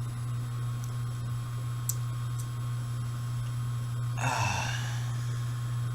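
A laundry machine running elsewhere in the house gives a steady low hum with a thin high whine. Over it come a faint click about two seconds in and a short metallic scrape about four seconds in, as small pistol parts and a pin are handled.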